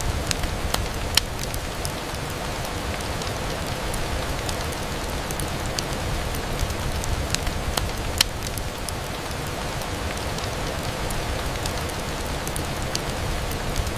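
Steady rain on a window, with scattered sharp clicks, one louder than the rest about eight seconds in.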